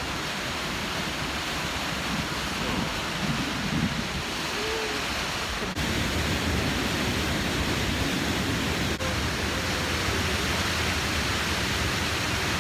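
Strong, fast-flowing stream of waterfall runoff rushing as a steady, even wash of water noise, dipping briefly twice.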